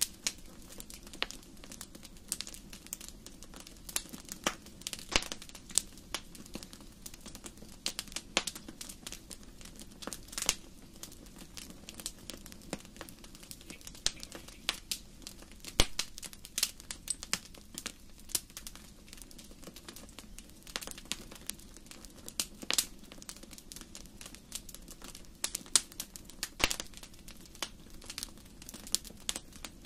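Wood fire burning in a fireplace, crackling with irregular sharp pops and snaps, some louder than others, over a faint steady low rumble.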